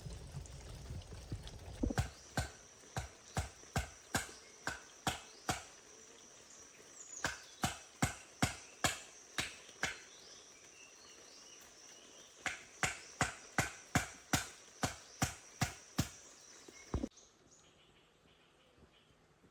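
Repeated sharp chopping blows in two runs, about two a second and then about three a second, over a steady high insect trill. Both stop abruptly near the end, leaving only faint forest sounds.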